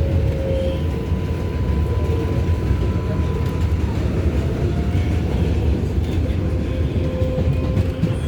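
R188 subway car running between stations, heard from inside: a steady low rumble of wheels on the rails, with a faint thin whine that drifts slightly in pitch.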